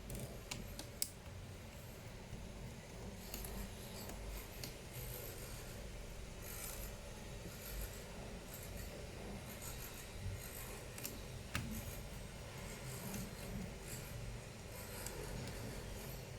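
Scattered small clicks, light taps and scraping as small hard objects are handled, with a sharp click about a second in and another near the end of the second third.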